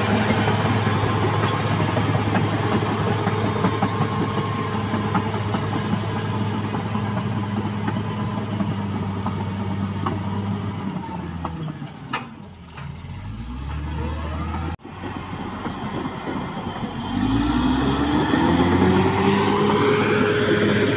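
CAT D6R XL bulldozer's diesel engine running steadily under load. About eleven seconds in its revs fall away and it runs low, there is a sudden brief dropout, and then the engine revs back up with a rising pitch near the end.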